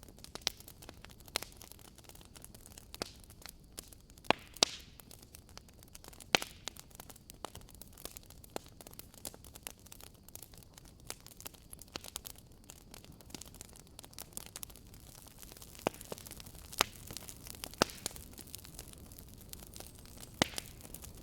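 Campfire crackling: wood burning with irregular sharp pops and snaps over a low steady hiss.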